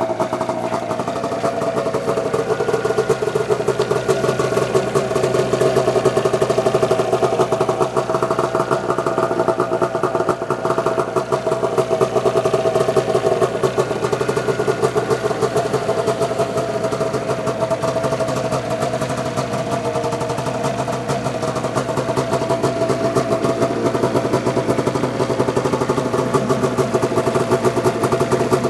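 1999 Arctic Cat ZR 600 EFI snowmobile's two-stroke engine running at a steady idle, its speed drifting up and down slightly a few times.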